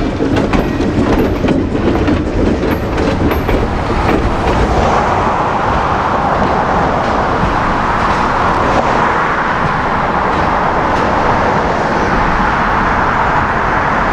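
Train running on the rails: the low rumble and clickety-clack of the wheels over the rail joints, then a steady rushing noise takes over about five seconds in.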